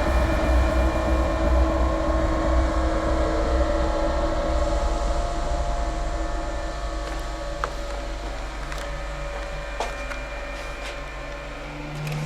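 Car cabin noise: engine and road rumble that slowly dies down as the car slows, with a few light clicks and knocks over the last few seconds.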